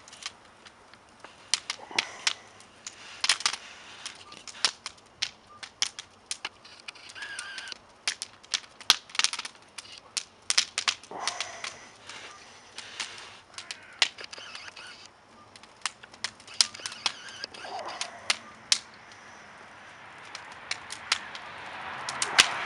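Wood fire burning in a stove, crackling with sharp, irregular pops; a steady hiss builds near the end.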